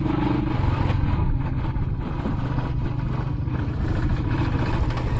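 Royal Enfield Classic 500's single-cylinder engine running steadily under the rider, a low, even pulsing.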